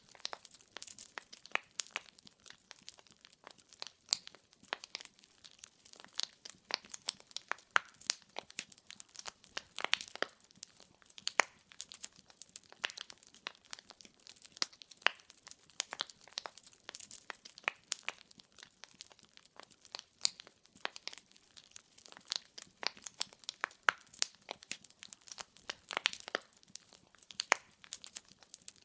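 Wood fire in a fireplace, logs crackling and popping: a dense run of irregular sharp snaps over a faint hiss, with no rhythm.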